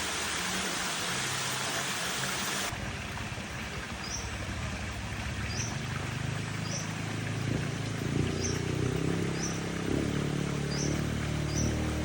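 Steady rushing-water noise, like a stream, that cuts off sharply about three seconds in. After it, a short high chirp repeats about once a second over low steady tones that grow louder from about eight seconds in.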